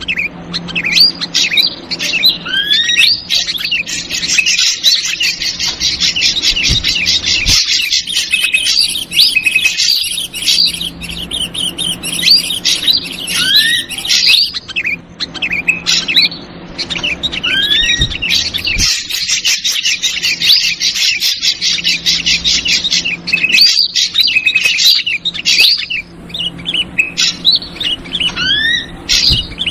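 Bird-lure recording of ashy drongo calls mixed with a noisy chorus of bulbul chatter. Short rising whistles alternate with long stretches of dense, rapid chirping, and the same pattern comes round again about every fifteen seconds, as a loop.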